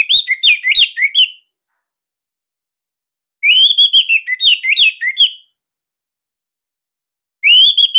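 Orange-headed thrush singing in short, tight, loud phrases of rapid whistled notes. Three phrases of about two seconds each are separated by pauses of about two seconds: one ends about a second in, one falls in the middle, and one begins near the end.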